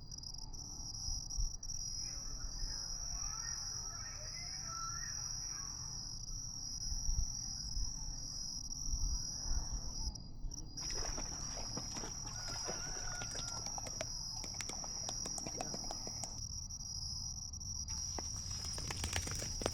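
Outdoor nature ambience: insects, likely crickets, chirring in one steady high tone, with faint bird calls. Scattered clicks and rustles start about halfway through, over a low rumble.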